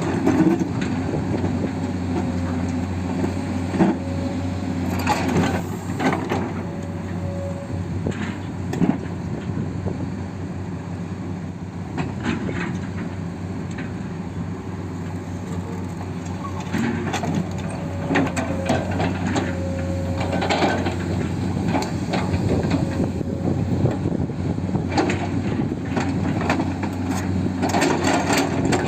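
Radio-controlled toy construction machines at work: small motors and gearboxes humming steadily, with repeated crunching and scraping of soil and stones being pushed and dumped.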